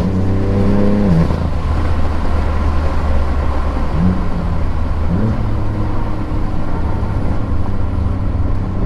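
Tuned BMW F80 M3's twin-turbo inline-six, fitted with an aftermarket exhaust with the X-pipe removed, running steadily on the road with tyre and road noise. The engine note drops in pitch about a second in and climbs again around five seconds in.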